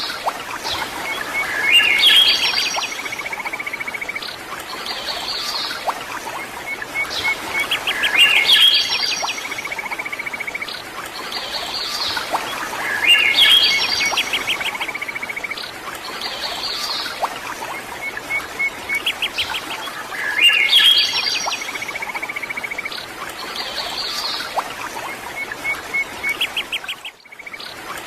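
Songbirds singing: a cluster of chirps, whistles and rapid trills that recurs about every six seconds over a steady background hiss, with a brief drop-out near the end.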